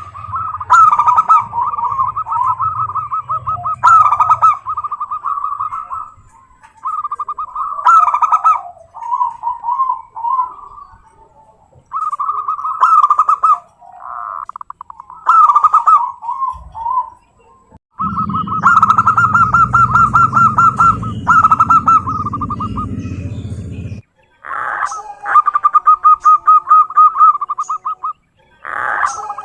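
Zebra doves (perkutut) cooing in repeated phrases of quick rippling notes, with short breaks between phrases. For about six seconds in the second half, a low rumble runs under the calls.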